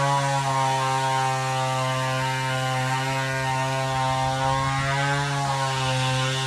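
Chainsaw engine running steadily at part throttle, its pitch dipping briefly and recovering about five seconds in, as when the chain bites into wood.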